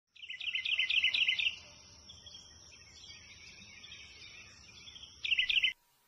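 Small birds chirping: a quick run of short falling chirps, softer song in the middle, then another quick run, over a steady high tone; it all cuts off suddenly near the end.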